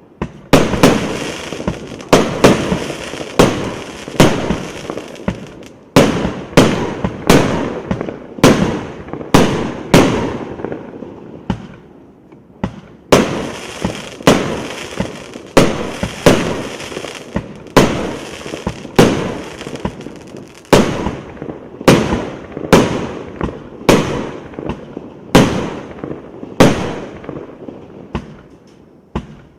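A 178-shot, 1.2-inch consumer fireworks battery firing shot after shot, with sharp bangs coming about one to two a second, each trailing off before the next.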